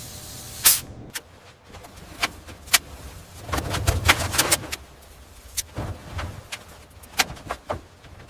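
Irregular sharp clicks and knocks, the loudest one about a second in, with a quick flurry of them over a low rumble around four seconds in.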